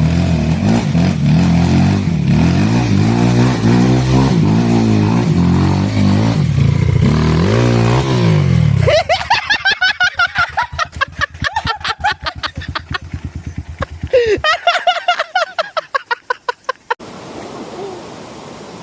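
Dirt bike engine pulling hard in second gear, its pitch rising and falling with the throttle. After about nine seconds it changes to a rapid stuttering pulse with gliding pitch. Near the end this cuts off abruptly to a steady hiss.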